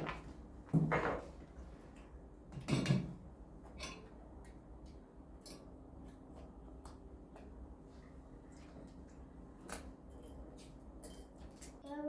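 Kitchen handling sounds while breakfast is set out: plates, bowls and cutlery being put down and knocked together, with two heavier knocks about one and three seconds in and a scatter of light clicks between.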